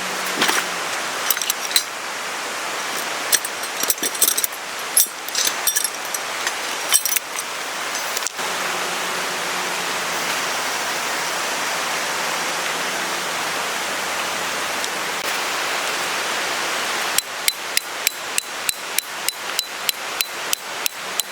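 Steady rushing noise with scattered metallic clinks in the first several seconds, then a fast, even run of clicks, about five a second, near the end.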